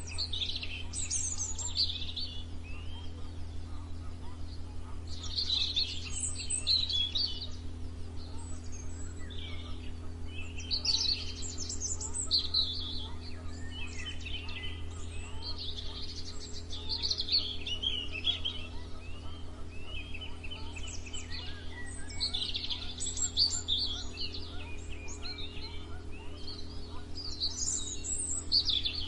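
Songbirds singing and chirping in bursts of quick trills and twitters every few seconds, several voices overlapping, over a steady low hum.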